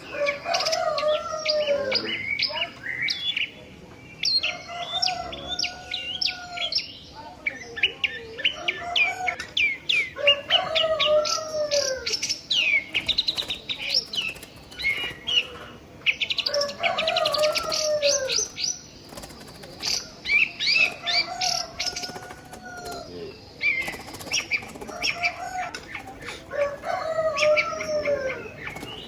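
Birds calling: a lower, arching call repeats about every two to three seconds, over a steady stream of fast, high chirps.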